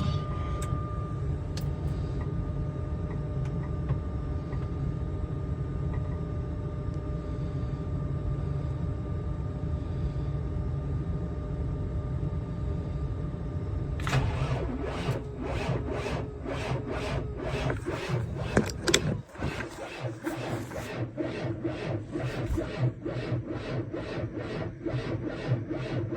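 Tractor engine being started in the cold and struggling. A steady mechanical drone runs for about fourteen seconds, then turns into a rhythmic pulsing of about two to three beats a second that carries on to the end.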